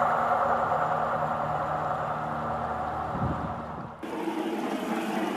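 Passenger train going away on the rails: a steady rushing rumble of the coaches that fades as they recede, with one low thump about three seconds in. About four seconds in it cuts suddenly to a different steady rushing noise.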